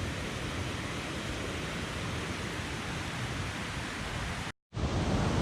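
Mountain stream rushing over a rocky bed, a steady even wash of water noise. It cuts out completely for a moment about four and a half seconds in, then comes back a little louder.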